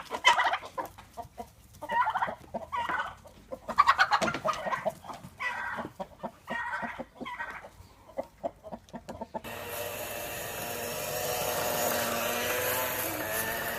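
A bird clucking like a hen: short calls repeated in quick bursts for about nine seconds, then cut off by a change to a steady noisy background.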